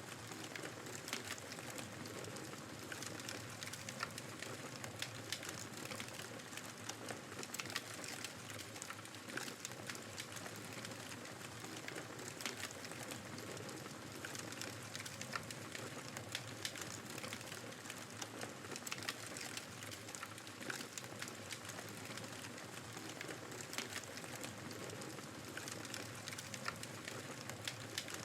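Wood fire crackling with frequent small, sharp pops, over the steady noise of blizzard wind.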